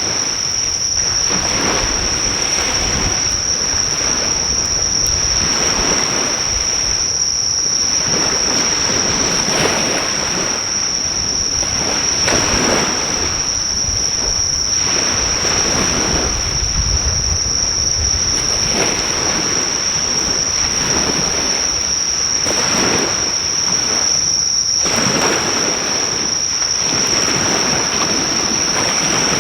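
Sea waves washing on the shore, swelling and fading every few seconds, under a continuous high-pitched insect trill held on one steady pitch.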